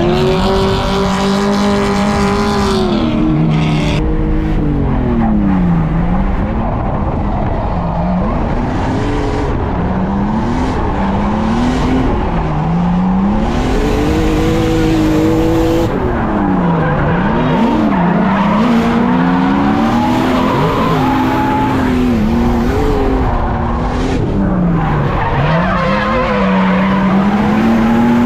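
A drift car's engine, heard from inside the cabin, revving up and down again and again as it is worked through a slide, with tires skidding and squealing under it.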